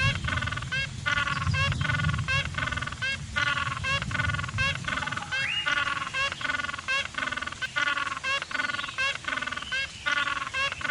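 A flock of birds calling over and over, in quick, evenly repeated pitched calls, several a second.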